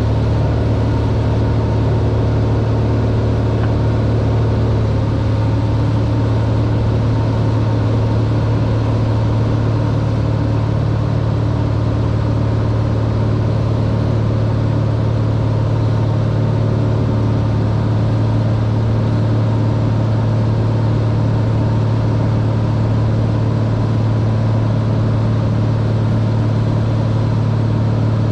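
Cessna 182R's piston engine and propeller droning steadily, heard from inside the cabin, with a slight shift in its higher tones about five seconds in.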